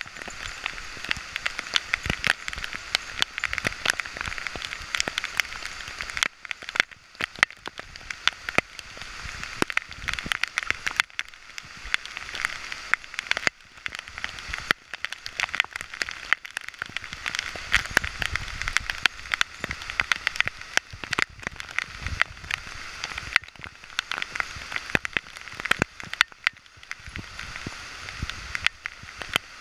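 Steady rain falling through the forest, with many sharp, irregular taps of raindrops striking the GoPro's housing close to the microphone.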